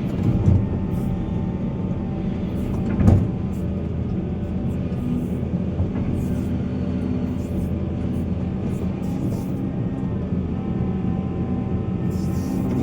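Heavy diesel mining machinery running steadily, with two short knocks, one about half a second in and one about three seconds in.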